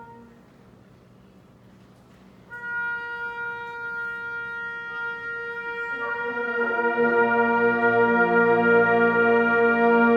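Concert wind band: a held chord stops, and after a pause of about two seconds a single sustained note enters. About six seconds in the full band comes in underneath on a loud held chord that swells.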